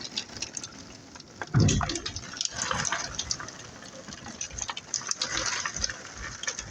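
Heavy rain falling and splashing, with many small sharp drop impacts. A loud low thump comes about one and a half seconds in.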